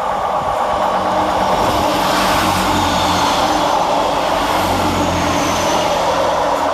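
Two coupled Class 158 diesel multiple units going through the station, with a steady diesel engine drone and the running noise of wheels on rails.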